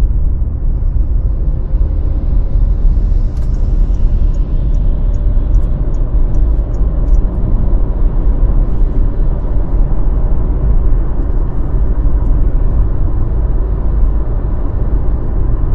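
Steady low rumble of a car driving: engine and road noise heard from inside the cabin. A short run of faint, evenly spaced ticks comes a few seconds in.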